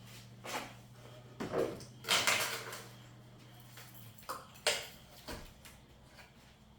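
Handling noises: a few rustles and knocks, the loudest about two seconds in, over a low steady hum that stops about four seconds in.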